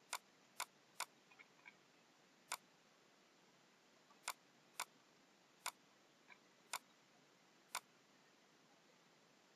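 Computer mouse clicking: about nine sharp single clicks at uneven intervals, with a few fainter ticks between, as lines are picked for the trim command in a CAD drawing.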